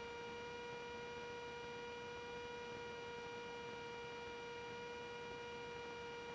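Steady, faint hum on the Cessna 310's cockpit audio feed: one unchanging tone with a ladder of higher overtones over a soft hiss.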